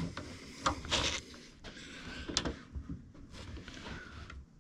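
Handling noises: scattered light clicks, knocks and rustles, the sound of equipment being moved and set up.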